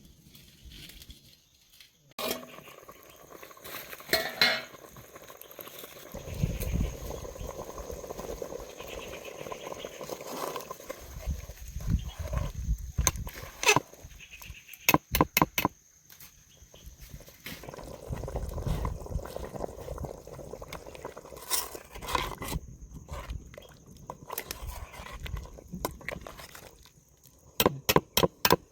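Kitchen work noise: scattered sharp knocks and clatter, with two quick runs of four or five knocks, one about halfway through and one near the end. Low rumbling handling noise comes and goes between them.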